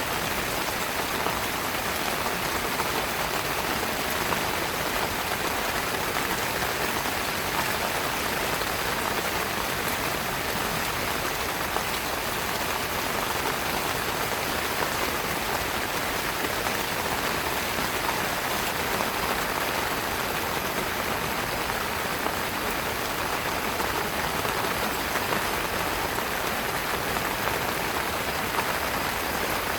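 Heavy rain falling steadily on a tent, an even hiss with no breaks.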